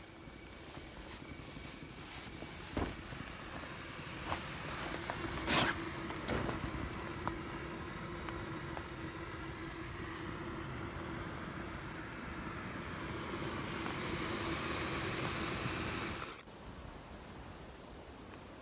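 Camping stove burning under a pot of water for a brew: a steady hiss that slowly grows louder, with a few clicks of handling in the first six seconds, cutting off abruptly about sixteen seconds in.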